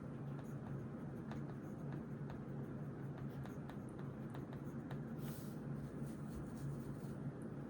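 Writing on paper, with a run of small scratches and taps, over a steady low hum. A short hiss comes a little after five seconds in.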